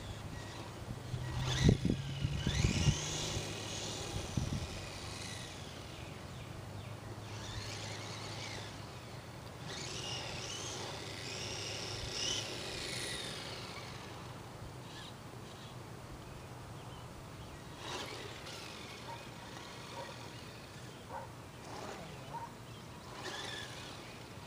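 Electric RC short course truck whining as it drives, the pitch rising and falling as it speeds up and slows down. There are a few loud knocks about two seconds in.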